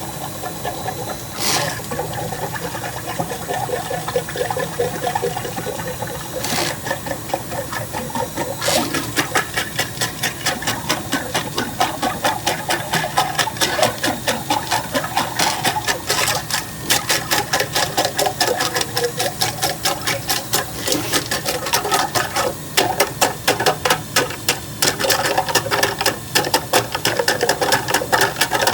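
Electric drain-cleaning machine turning a steel wire cable inside a clogged drain pipe: a steady motor hum with a few sharp clicks, then from about nine seconds in a fast, even rattle as the spinning cable works at the blockage.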